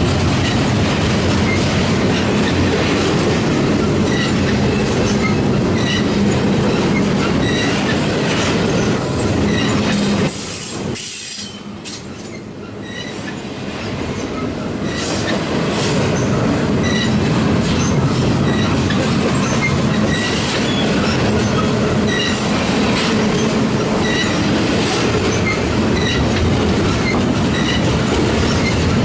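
Double-stack intermodal well cars of a freight train rolling past: a steady rumble of steel wheels on rail with rhythmic clicks and short high wheel squeaks recurring. The sound drops in level for a few seconds about ten seconds in.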